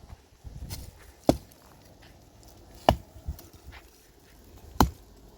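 Three heavy chopping blows, evenly spaced about a second and a half to two seconds apart.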